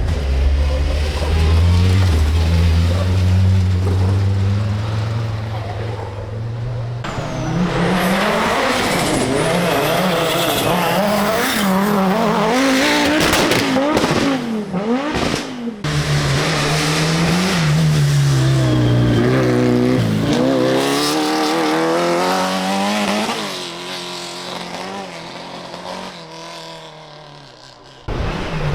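Rally cars driven flat out, engines revving up and down through the gears with some tyre squeal. It comes as several separate passes that change abruptly, and the last one fades away near the end.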